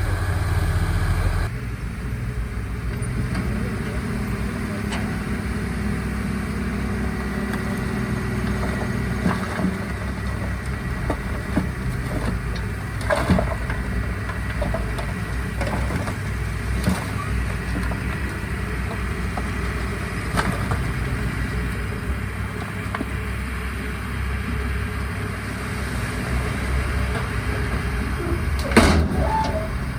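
Diesel engines of bulldozers and dump trucks running steadily at work, with a few short metallic clanks.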